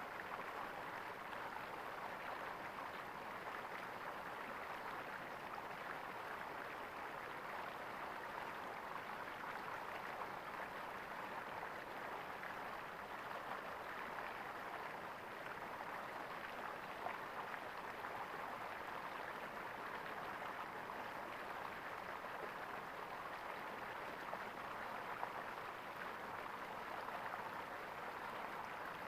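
Water gurgling steadily, an even, unbroken flow.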